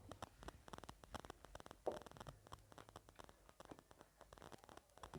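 Close-miked chewing and mouth sounds from eating gilo chatpate, a moist spiced puffed-rice snack: soft, quick wet clicks and smacks, with one slightly louder smack about two seconds in.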